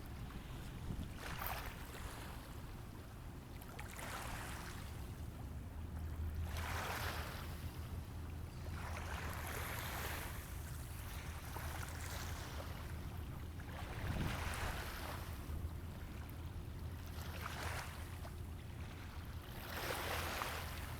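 River water lapping in small waves every two to three seconds, over a steady low hum.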